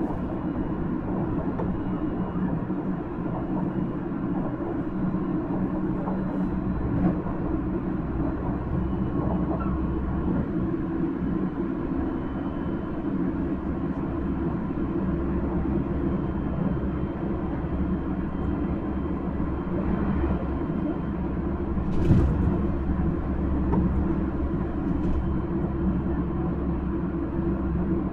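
Steady running noise heard from inside a Nankai 1000-series electric train car at speed: wheels rumbling on the rails and the car's motors running. A single sharp knock comes about three-quarters of the way through.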